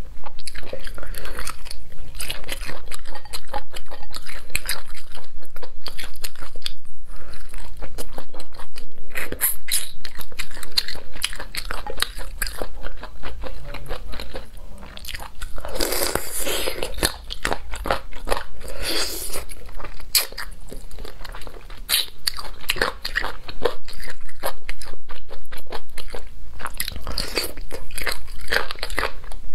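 Close-miked biting and chewing of braised Sichuan-pepper chicken feet: a continuous run of crunching and crackling clicks as the skin and cartilage are bitten and chewed.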